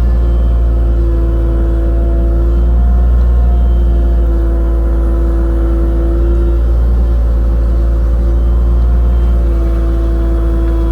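Excavator engine running steadily while digging a trench, a loud low drone with a higher tone that wavers slightly in pitch.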